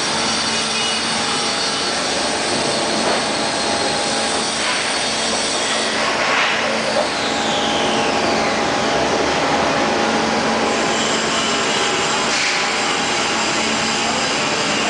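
End grinder machine running with a steady hum and hiss. A couple of high whines fall in pitch around the middle.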